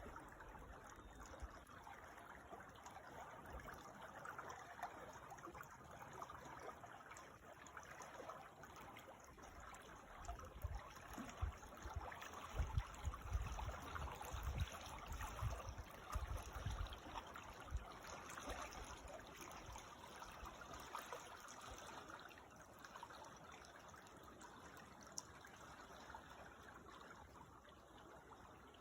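Creek water trickling and flowing steadily, with a few low rumbles around the middle.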